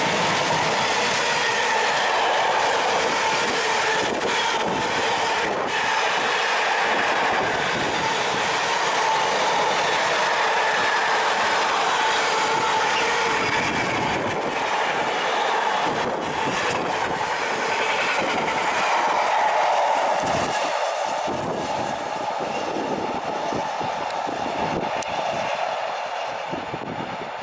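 Train passing close by on the rails: continuous wheel-on-rail noise with clicks from the track and a faint steady high tone, easing off toward the end as it moves away.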